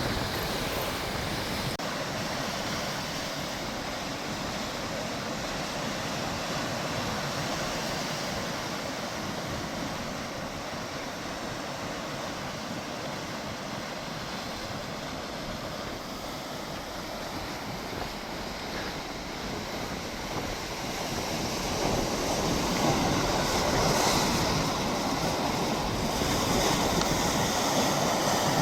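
Sea waves washing on the shore in a steady wash of surf, growing louder over the last several seconds.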